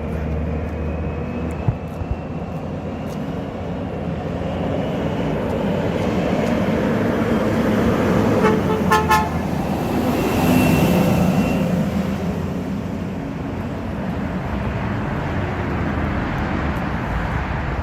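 Garbage recycling truck's diesel engine running as it drives off, growing louder and then easing away. About eight and a half seconds in, two quick toots of its horn.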